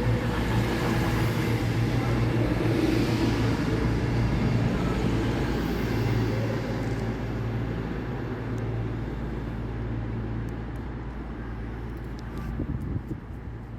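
A train running at a station platform with a steady low engine hum, which fades gradually after about six seconds as it moves away. A few faint ticks come near the end.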